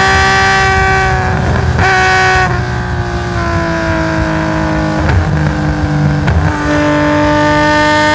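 Nissan S20 twin-cam straight-six of a tuned Hakosuka Skyline GT-R race car, heard on board, running at high revs. The revs then fall away, broken by several brief interruptions like gear changes through its sequential gearbox. A few seconds from the end it pulls again, the pitch climbing slowly.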